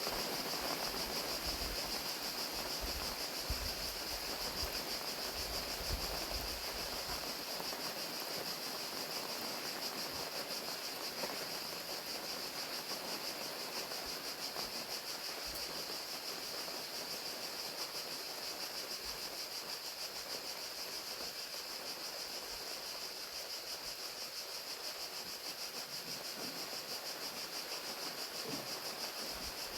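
Crickets trilling steadily in a high continuous chorus over the even hiss of falling rain. A low rumble sits under it for the first several seconds.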